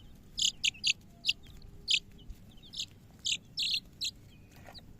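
Young chickens peeping: about ten short, high calls at uneven intervals.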